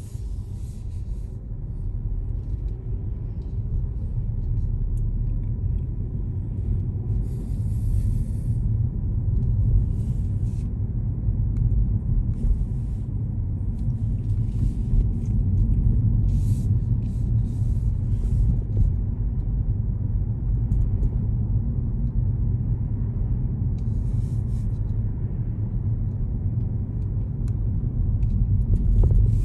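Steady low rumble of a car driving, with short bursts of high hissing that come and go.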